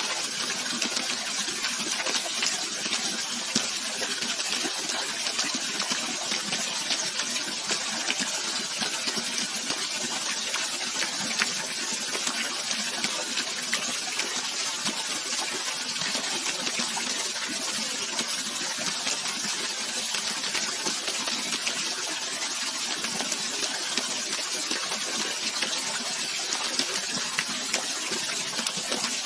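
Running water: a steady, even rush, mostly a bright hiss with little low rumble.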